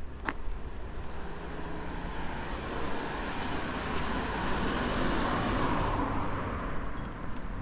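A car drives past: its tyre and engine noise swells to a peak about five seconds in, then fades away. A single sharp click comes just at the start.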